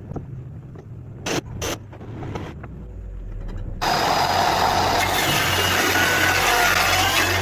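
Table saw with a low motor hum and two sharp clicks about a second and a half in; about four seconds in a loud, steady rushing noise sets in suddenly as the blade cuts into wood.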